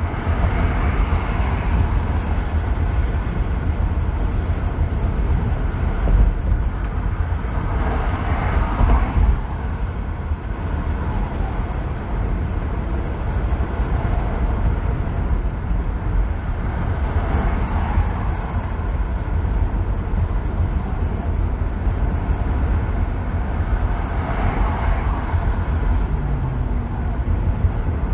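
Car driving on a freeway: a steady, strong low road rumble with tyre and wind noise over it, and four swells of rushing noise that rise and fade.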